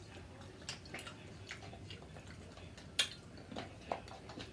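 Faint eating sounds: irregular soft clicks and mouth smacks of chewing, with a sharper click about three seconds in.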